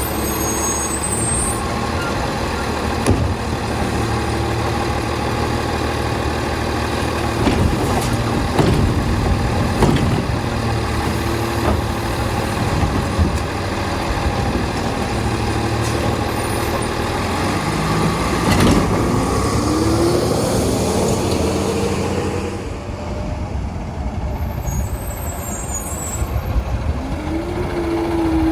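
Diesel engine of an Autocar Labrie side-load garbage truck running, its pitch rising and falling a few times as it revs, with occasional knocks and clanks.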